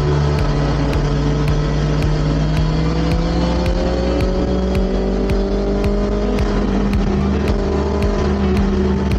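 BMW S1000XR's inline-four engine running at road speed, its pitch slowly rising partway through as the bike gathers a little speed and then holding steady, with wind rushing past.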